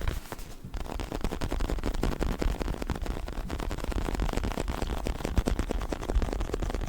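Fingers scratching and rubbing over a fake leather neck pillow, making a dense run of crackling clicks.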